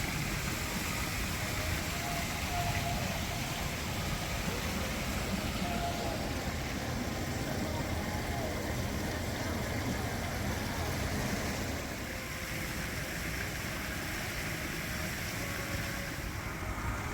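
Strong wind buffeting the microphone: a steady rushing noise with a fluttering low rumble, easing slightly about twelve seconds in.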